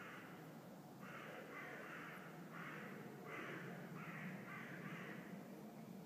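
A bird giving a run of harsh, noisy calls, each about half a second long with short gaps, that stops about five seconds in.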